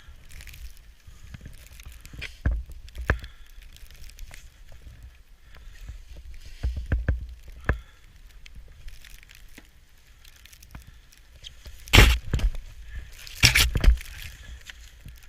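Snow shovel scraping and digging into snow in irregular strokes, the two loudest near the end.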